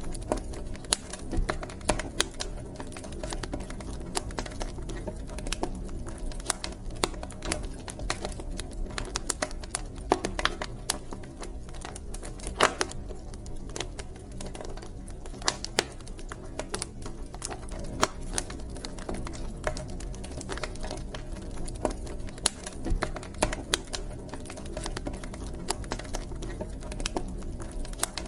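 Wood fire burning in a fireplace: irregular sharp crackles and pops, some louder than the rest, over a steady low rumble of the flames.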